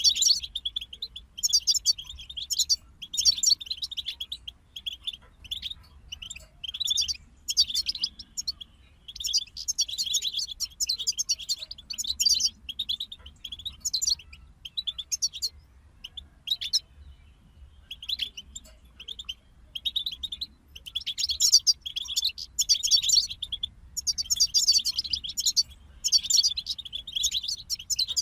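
European goldfinch song: rapid, high twittering phrases in runs of a second or two with short pauses, thinning out briefly about two-thirds of the way through.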